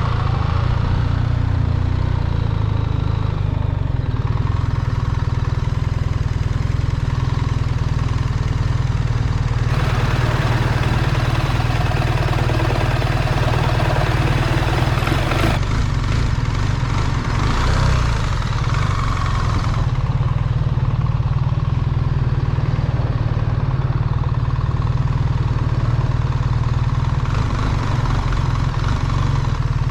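BMW R 1300 GS motorcycle's boxer-twin engine running steadily, with road and wind noise on the microphone.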